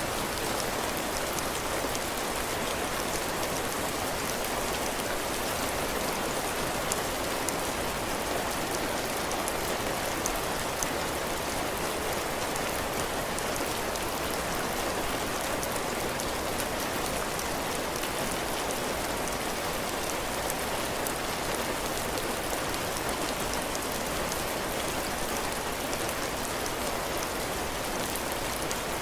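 Heavy rain falling steadily on a cabin porch, its drops hitting the roof and the ground, with scattered individual drop ticks over an even hiss.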